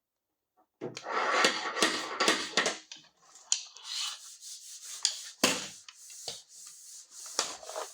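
Abrasive scraping and rubbing on the car's sheet-metal body panel. It starts as a loud dense rasping about a second in and lasts about two seconds, then goes on as lighter, irregular scraping with a sharp knock about five and a half seconds in.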